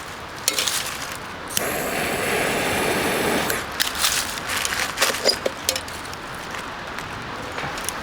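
Scattered clicks and knocks of things being handled, with a steady rushing noise for about two seconds, starting a second and a half in.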